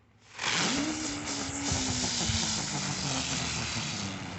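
A ground firework igniting about half a second in and spraying with a loud hiss and a whine that slowly falls in pitch, a motorcycle-like vroom, then gradually dying down.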